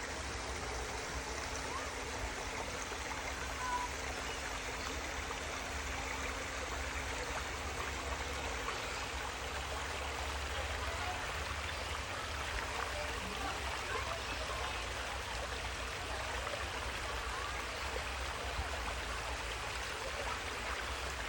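Steady running, trickling water, as from a small stream or pond water feature.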